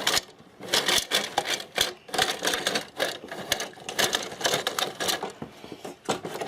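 Rapid, irregular clicking and rattling of a plastic toy garage's lift as it is twisted down by hand.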